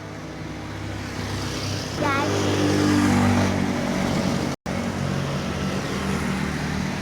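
Yamaha Mio 155cc single-cylinder four-stroke scooter engine revving. It climbs in level and pitch for about two seconds, cuts out for a split second about two-thirds of the way in, then runs on steadily.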